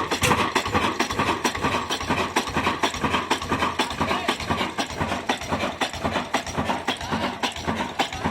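Old stationary diesel engine running steadily with a rapid, even knocking beat, about five or six beats a second.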